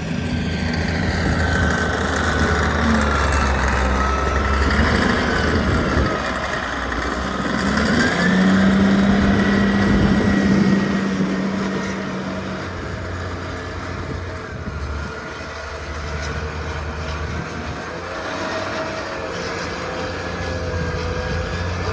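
A vehicle engine running steadily with a low drone, getting louder for a few seconds about eight seconds in, then settling back.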